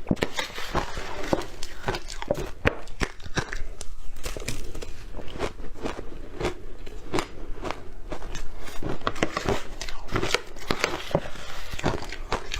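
Close-miked crunchy eating: a person biting and chewing something hard and brittle, with many sharp, irregular crunches.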